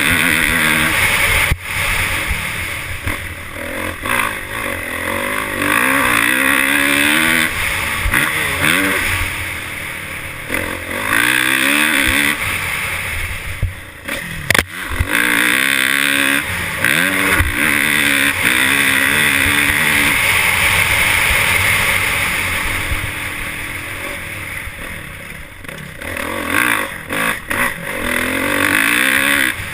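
Motorcycle engine being ridden, revving up and falling back again and again as the throttle opens and closes, over a steady rushing hiss.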